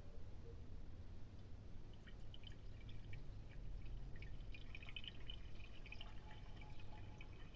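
Kerosene poured into an engine's oil filler neck, faintly trickling and dripping. It is being added to the engine oil as a flush to clean knocking hydraulic lifters.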